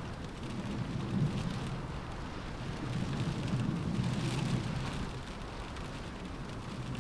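Steady rain with gusting wind, a low rumble that swells twice.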